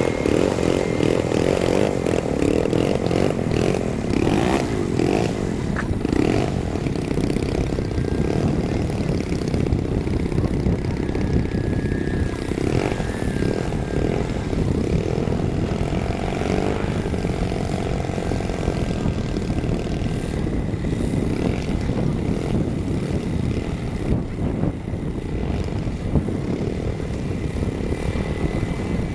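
Engine of a large radio-controlled model airplane running steadily.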